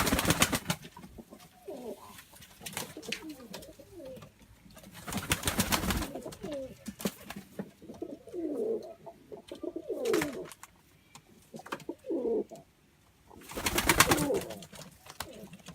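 Pet doves cooing repeatedly in low, wavering calls, broken by three loud bursts of rapid rustling noise: one at the start, one about five seconds in and one near the end.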